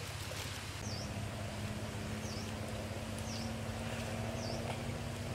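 A bird repeating a short, sharp chirp that dips and rises in pitch, about once a second, over a steady low rumble. A faint steady drone starts about a second in.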